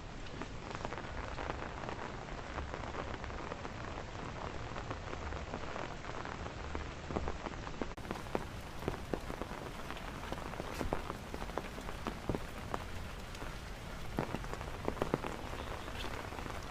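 Heavy rain falling steadily, with many sharp hits of drops landing close by, more of them in the second half.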